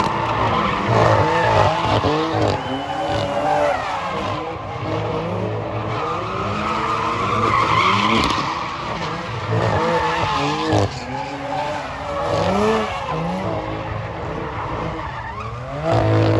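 A car doing a burnout, its tires squealing and skidding while the engine revs rise and fall again and again, then hold at a steady high rev near the end.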